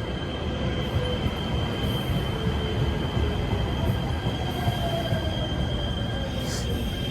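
Light-rail train running along the tracks, its wheels giving a steady high-pitched squeal over a low rumble.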